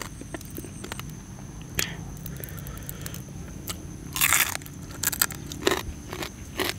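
A person biting and chewing crunchy food close to the microphone, a few sharp crunches scattered through, the loudest about four seconds in.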